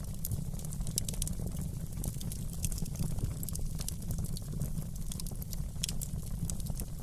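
Wood fire crackling in a fireplace: many small, irregular sharp pops and snaps over a steady low rumble.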